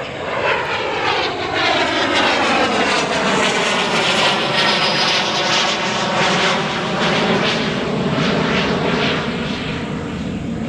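An airplane departing from the airport and passing overhead, its engine noise swelling over the first couple of seconds with a sweeping, phasing whoosh and easing slightly near the end.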